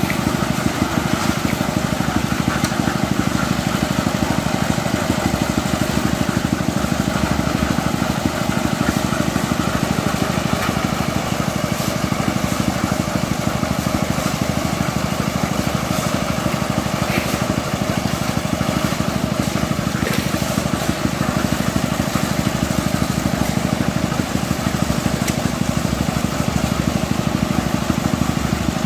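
Engine of road-construction machinery running steadily at a constant speed, with a fast, even pulse.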